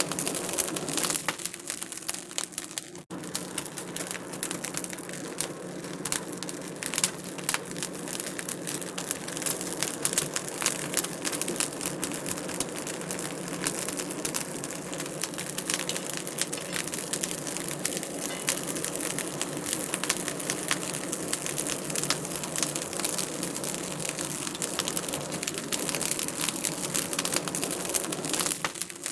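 Wood fire crackling steadily in a fireplace, with dense small pops and snaps over a constant hiss.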